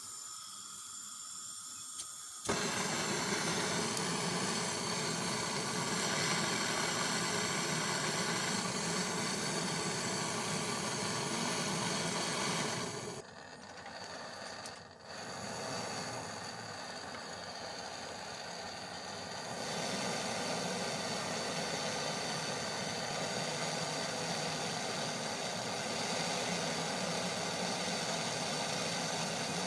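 Portable butane gas torch flame burning with a steady hiss. It starts suddenly about two seconds in and drops away briefly about halfway through before running on.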